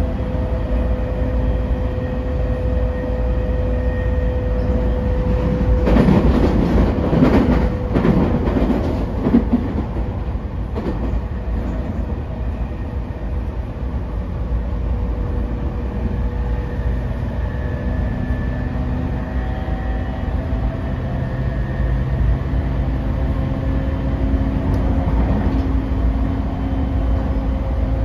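Running noise of a JR East 209 series 500 sub-series electric commuter train, heard from inside the passenger car: a steady low rumble of wheels on rail with a motor hum. About six to ten seconds in there is a louder, rougher stretch.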